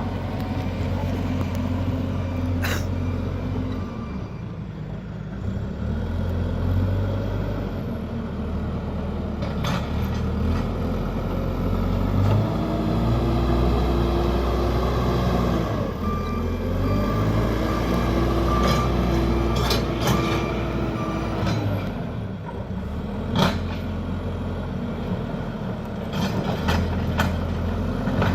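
JCB backhoe loader's diesel engine working under load, its pitch rising and falling as it revs, with several sharp knocks. A short run of beeps sounds in the middle.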